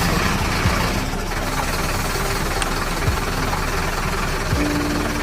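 An engine running steadily at idle with a low, even rumble and a few short knocks; a steady tone comes in near the end.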